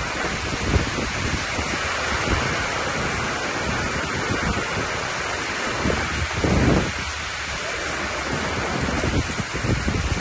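Heavy rain pouring down in a severe thunderstorm, a steady loud hiss, with gusts of wind rumbling on the microphone; the strongest gust swells about six seconds in.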